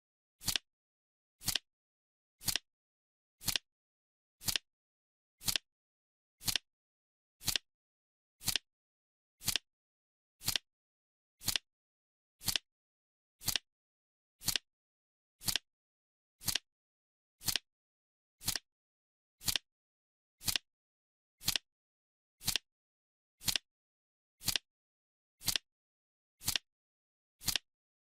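Clock-style ticking of a countdown timer: one sharp tick every second, with silence in between.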